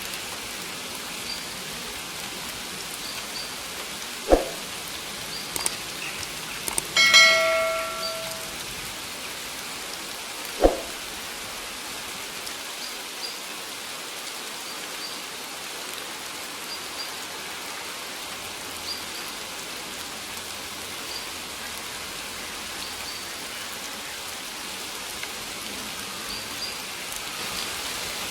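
Steady rain hiss, with two sharp knocks of heavy drops about four and ten seconds in, and a single ringing bell-like metallic tone about seven seconds in that fades over a second or two.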